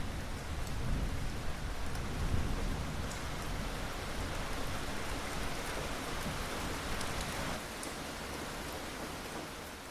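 Steady rain falling, with a low rumble underneath; it begins to fade out near the end.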